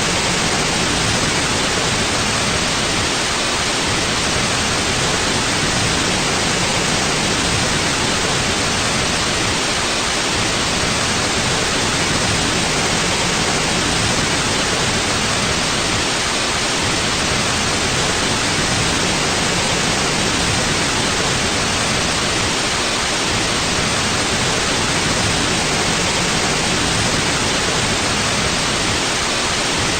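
Steady, unchanging white noise: an even hiss across the whole range, strongest in the upper frequencies.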